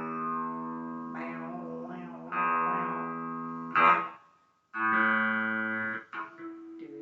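Electric guitar played through a Spark amp: a run of strummed chords left to ring, with a sharp strum about four seconds in that is damped to a brief silence before the next chord rings out, and short choppy strums near the end.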